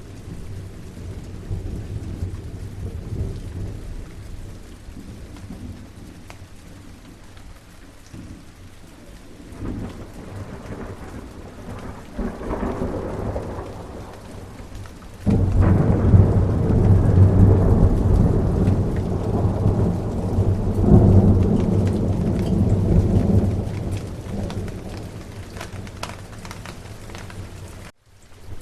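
Steady rain in a thunderstorm, with distant thunder rumbling. A low rumble swells about halfway through, then a loud peal of thunder breaks in suddenly and rolls on for several seconds before dying away. The sound cuts out for a moment near the end.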